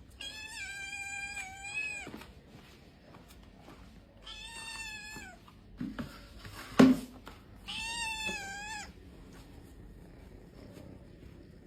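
A cat meowing three times, each meow long and drawn out at a fairly steady pitch, with a short knock between the second and third.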